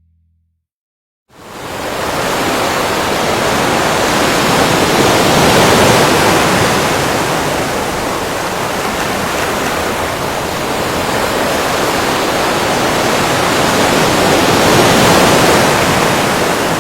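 Loud, steady rushing noise with no tone in it, starting suddenly after about a second of silence.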